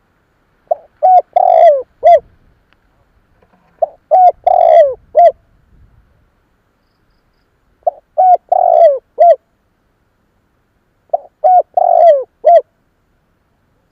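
Spotted dove singing its cooing song: four phrases, about one every three and a half seconds. Each phrase has two short coos, a longer falling coo and a short closing note.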